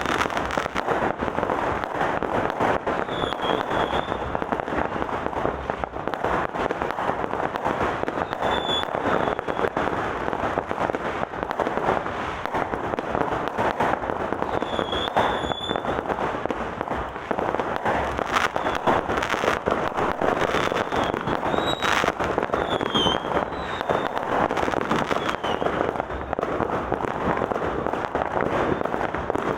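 New Year's Eve fireworks going off in a dense, continuous barrage of rapid crackling bangs with no let-up, with a few short high-pitched glides over the top.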